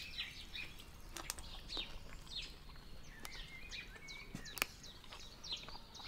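Small songbirds chirping, a run of short high chirps and twitters, with one sharp click about four and a half seconds in.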